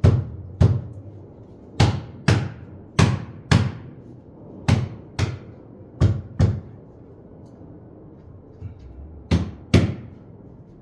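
Sharp hammer blows, struck in pairs about half a second apart, twelve in all, with a longer pause near the end before the last pair.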